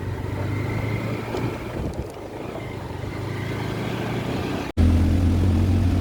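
Motorcycle engine running in low gear on a rough, unpaved uphill track, a steady drone. About three-quarters of the way through, the sound cuts out for an instant and comes back louder.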